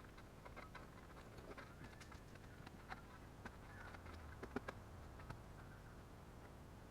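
Faint, irregular clicks and crunches of a shovel working into soil while a trench is dug by hand, the loudest about four and a half seconds in.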